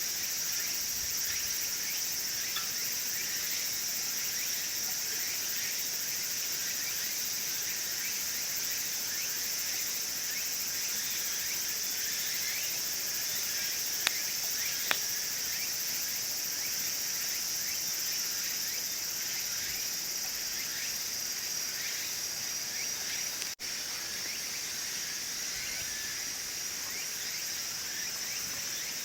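Steady chorus of singing insects, a continuous high-pitched trill, with two sharp snaps about halfway through.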